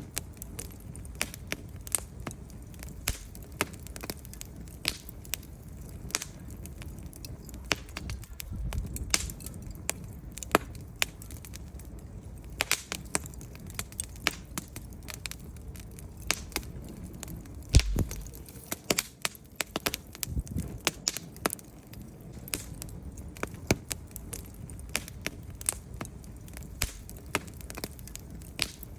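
Wood fire crackling in a fireplace: irregular sharp pops and snaps from the burning logs over a low steady rumble of the flames, with one louder pop about eighteen seconds in.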